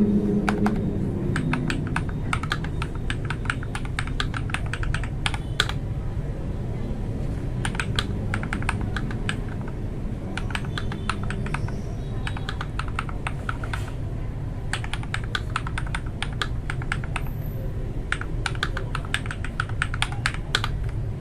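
Mechanical keyboard with lubed Akko Matcha Green linear switches being typed on in quick bursts of keystrokes with short pauses between runs. The key sound is solid and warm.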